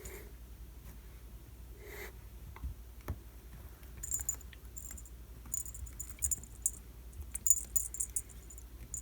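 Cat toy jingling in short, bright bursts during play, with a few light knocks earlier on.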